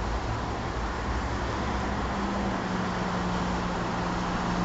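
Steady road and engine noise of a vehicle on the move, with a low engine hum that comes in about two seconds in.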